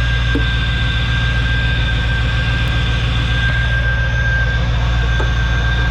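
1996 Chevrolet Corvette's LT1 5.7-litre small-block V8 idling steadily with a steady high whine over it, a really good running motor.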